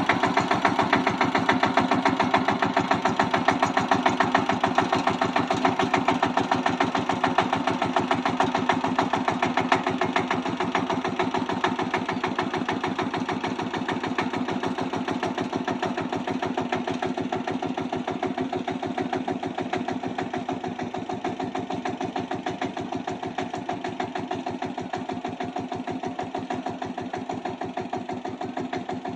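Single-cylinder diesel engine of a Kamco power tiller running steadily with a fast, even chug, slowly getting a little quieter toward the end.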